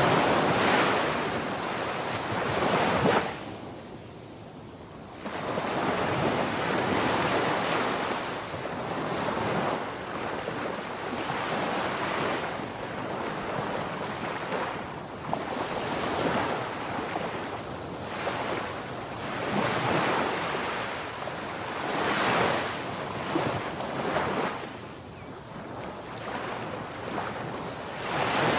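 Ocean waves breaking and washing on a shore, swelling and falling back every few seconds, with wind noise.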